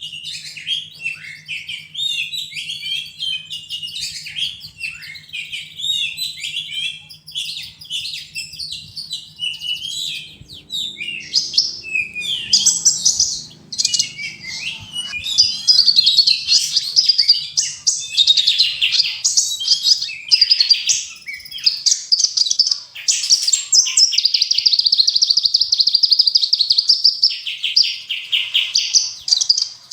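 Small songbirds singing in rapid, sharp chirps, whistled notes and trills: a masteran tutor recording mixing several birds' songs, used to teach songbirds such as the oriental magpie-robin. About halfway through, the song turns louder and denser. Near the end comes a long, fast rattling trill.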